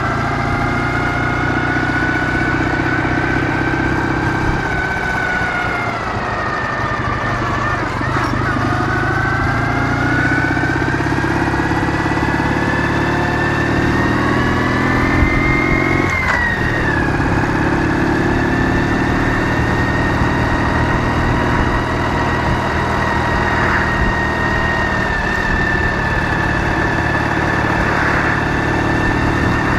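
Ural motorcycle's 650 cc flat-twin engine running under way. Its pitch sags about six seconds in and then climbs steadily. It drops suddenly about sixteen seconds in and holds fairly even after that.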